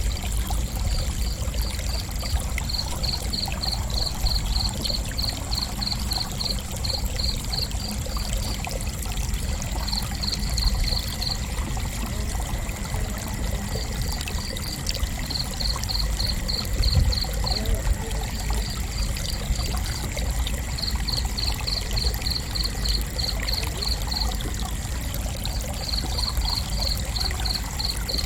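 Cricket chirping in an even pulsing rhythm, about three chirps a second, in runs broken by short pauses, over a steady low noise.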